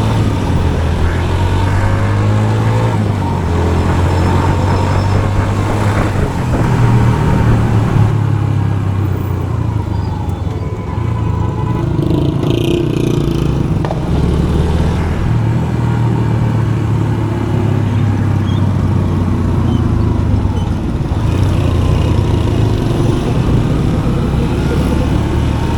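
Motorcycle engine running under way in traffic, its low drone rising and falling with the throttle and easing off for a while midway.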